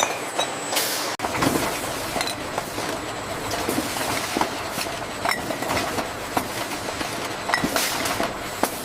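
Automated packaging-line machinery running with a steady mechanical clatter and frequent small clinks and knocks.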